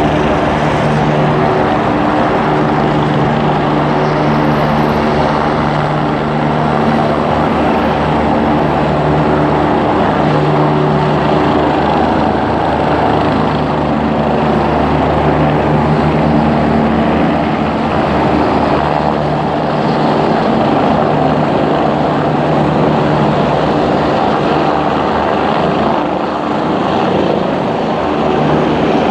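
Air ambulance helicopter running loud and steady, its rotor and engine giving a constant pitched hum.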